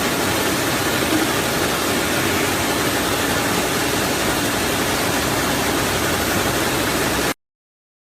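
Automatic plastic straw packaging machine running: a steady mechanical noise with a hiss, cutting off suddenly about seven seconds in.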